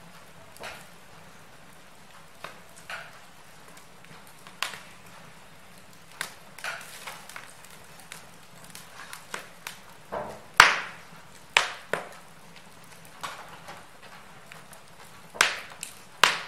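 Wood fire in a fireplace crackling: a low steady hiss under irregular sharp pops and snaps, the loudest about ten seconds in and two more near the end.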